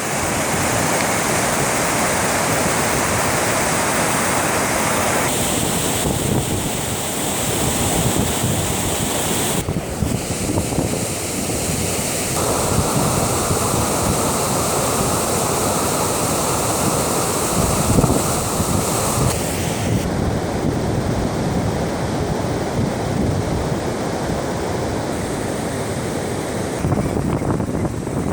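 Steady rush of water at a dam, mixed with wind buffeting the microphone. The noise changes character abruptly several times.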